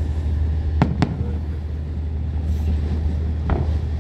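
Fireworks going off: two sharp bangs in quick succession about a second in, and another near the end, over a steady low rumble.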